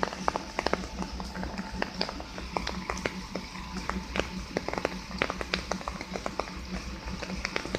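Heavy truck's diesel engine running steadily at low revs, with many irregular sharp clicks and knocks over it.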